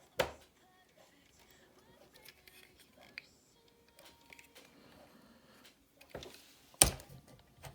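Plastic parts of a transforming robot toy figure being handled and clicked into place, with a sharp click just after the start, a small one about three seconds in and a loud one near the end.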